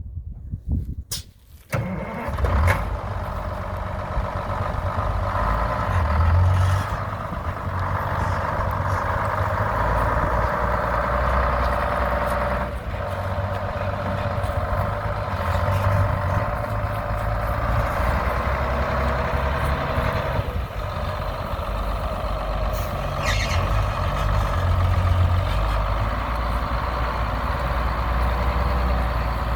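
GMC Brigadier grain truck's engine starting about two seconds in, then running steadily with a deep rumble and a few brief swells in level.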